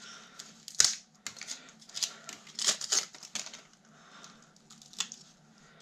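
Desk fan motor being handled and checked by hand: short metallic clicks and scrapes, the sharpest clack about a second in, then a few more scrapes and clicks spaced over the next few seconds.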